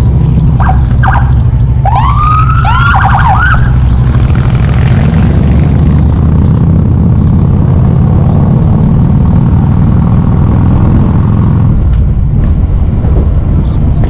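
Harley-Davidson V-twin engine running under way, a steady low rumble. In the first four seconds several short siren-like swooping tones sound over it.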